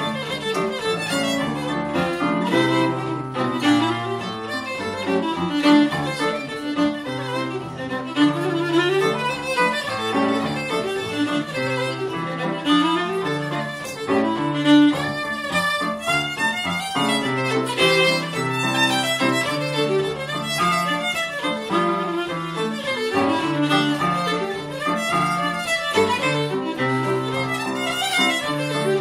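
Traditional Irish session music: fiddle playing a lively tune with other instruments, over a repeating low accompaniment.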